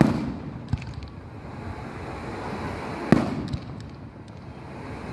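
Aerial firework shells bursting: a loud boom right at the start and another about three seconds in, each followed by smaller pops and faint crackling.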